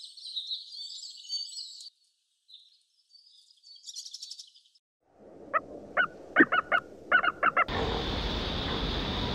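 High-pitched bird chirping for the first two seconds. Then, past the middle, a quick run of short, loud repeated bird calls, and near the end a steady rushing noise sets in.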